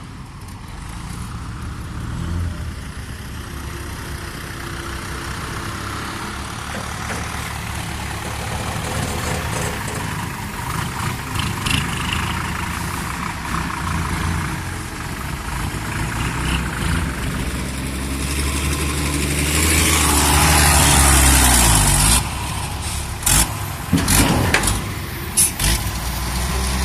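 Diesel dump truck engine running and rising in revs, then a loud rushing noise about twenty seconds in as the engine pitch falls away. Several sharp knocks and bangs follow near the end.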